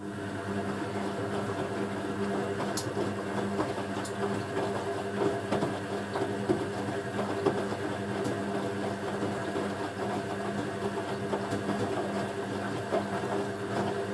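Hoover A3060 Electronic 1100 washing machine running, its motor and drum turning at a steady speed with a steady hum and a light crackle. The sound starts abruptly and holds even.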